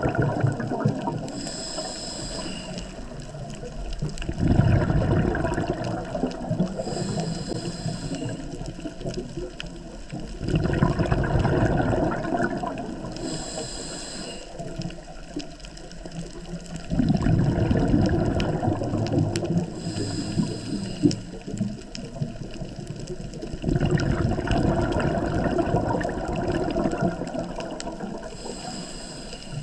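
Scuba diver breathing underwater through a regulator: a short hiss of inhalation, then a longer gurgling rush of exhaled bubbles, repeating about every six to seven seconds for about five breaths.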